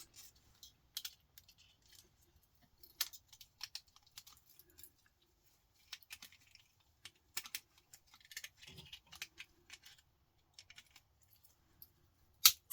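Irregular sharp clicks and clinks of parts being pried and pulled off a desktop power-supply circuit board, with a louder clack near the end.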